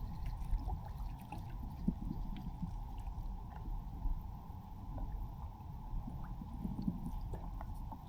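Water gurgling and lapping, with scattered small knocks and clicks.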